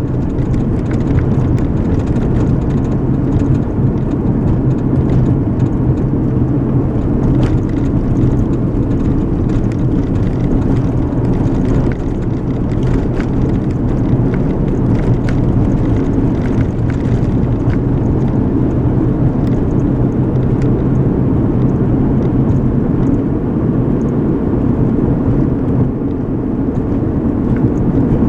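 Car driving at a steady pace, heard from inside the cabin: a constant low rumble of engine and tyre road noise with a steady low hum.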